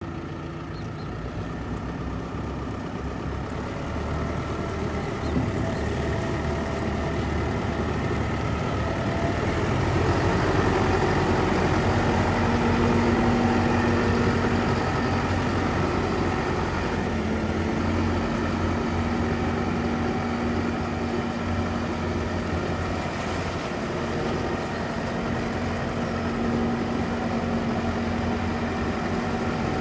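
Case IH Vestrum 130 tractor's diesel engine running steadily at idle, a low rumble that grows somewhat louder around ten seconds in.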